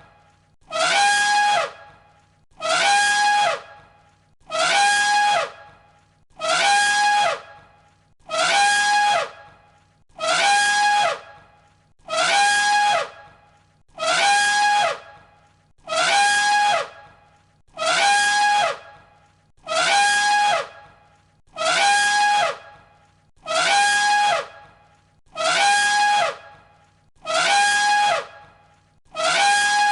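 Elephant trumpeting: the same short call, about a second long at a steady high pitch that drops off at the end, repeated identically about every two seconds as a loop.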